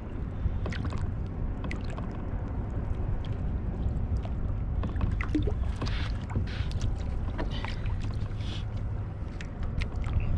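Water lapping and splashing against a fishing kayak's hull over a steady low rumble, with scattered small knocks and clicks.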